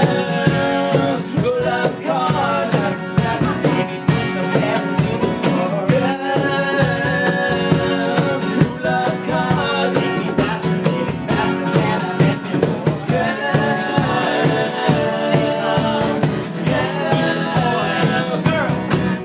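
Live rock band playing a song, with a steady drum beat and singing over the instruments.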